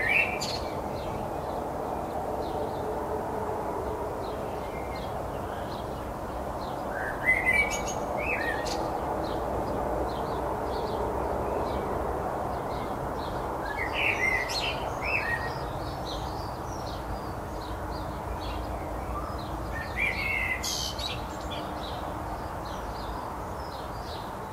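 Garden birds singing: one bird repeats a short song phrase about every six or seven seconds, with softer high chirps from other birds in between, over a steady low background hum.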